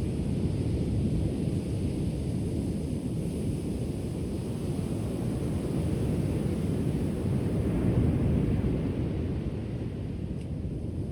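Ocean surf heard as a steady low rumble, swelling a little about eight seconds in.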